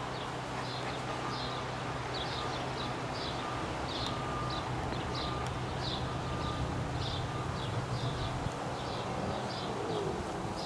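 A small bird chirping over and over, short high chirps about twice a second, over a steady low hum.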